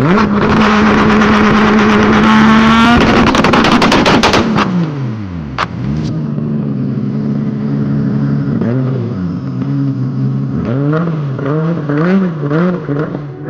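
The 99cc four-stroke engine of an FRP GMB100 mini bike running at high, steady revs, then dropping in pitch about four seconds in to a lower steady run. Near the end it is revved up and down in several quick blips.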